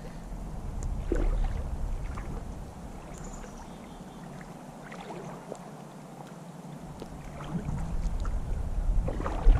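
A small hooked steelhead splashing and thrashing in river water as it is played in, in scattered splashes, with wind rumbling on the microphone that drops away for a few seconds in the middle and comes back. One loud knock or splash comes near the end.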